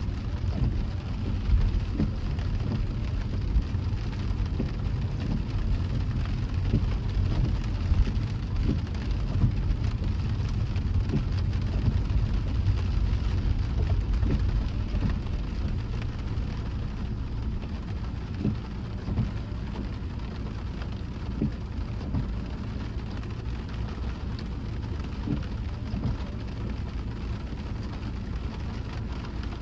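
Rain drumming on a moving car, many scattered drop taps over a steady low road rumble, easing a little about halfway through.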